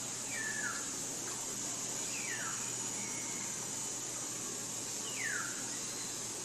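A bird calling three times, each call a short whistle sliding downward in pitch, over a steady high-pitched hiss of forest ambience.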